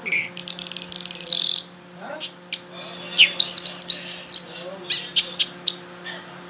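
A songbird singing: a fast buzzy trill, then after a pause a run of sliding, rising and falling notes and a few short sharp chirps, over a steady low hum.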